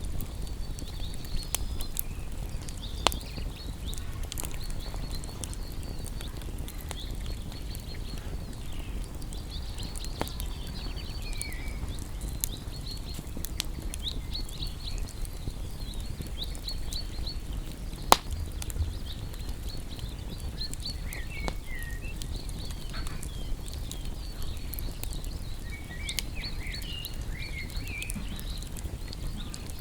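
Wood campfire crackling, with scattered sharp pops (the loudest about three seconds in and again at eighteen seconds) over a low steady rumble. Birds chirp and twitter in the background throughout.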